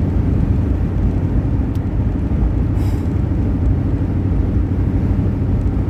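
Steady road and engine noise inside a Jeep's cabin while driving on the highway, a dense low rumble, with a short faint high hiss about three seconds in.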